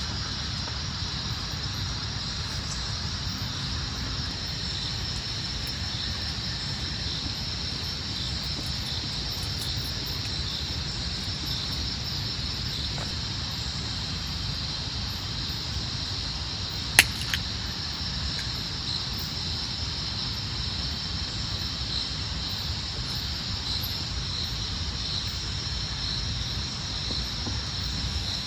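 Steady rain-forest ambience: a continuous high insect chorus over a low, even rumble, with one sharp click about seventeen seconds in.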